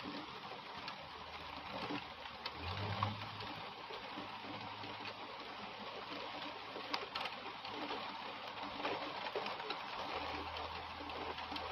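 Heavy rain pouring steadily onto conifer trees: a dense, even hiss dotted with small ticks of drops, and a low steady hum underneath.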